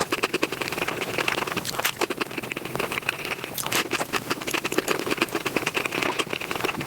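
Close-miked eating sounds sped up five times: a dense run of rapid chewing clicks, smacks and crunches.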